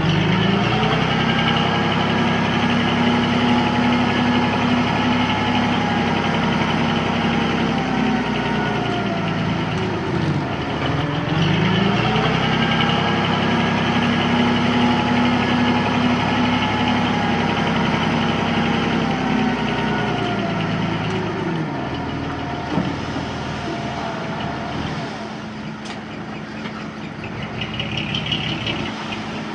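Heavy diesel engine of an earthmoving machine working at high revs. It dips briefly about ten seconds in and comes back up, then drops to a lower, steadier run for the last several seconds.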